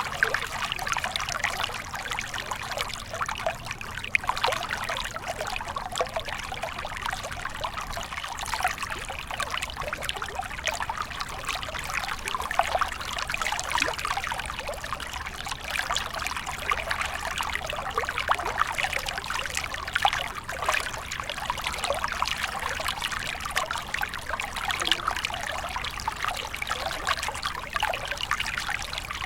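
A small stream flowing and trickling steadily, the water splashing and babbling over stones.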